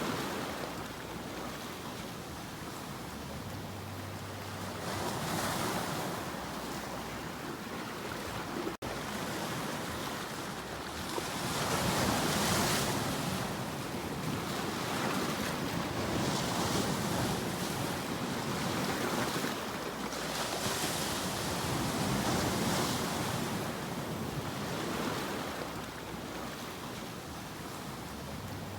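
Sea waves breaking and washing on the shore, swelling and ebbing every few seconds. The sound briefly cuts out for a split second about a third of the way through.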